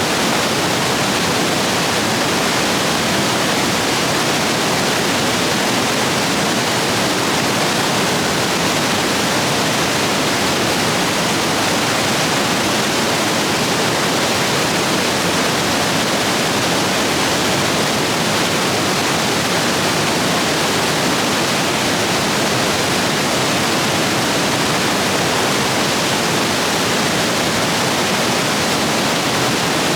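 Rain-swollen stream rapids rushing over rocks, a steady, loud, even roar of white water.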